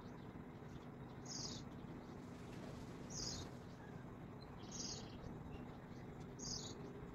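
A bird chirping: four short, high, falling calls, evenly spaced about a second and a half apart, over a faint steady hum.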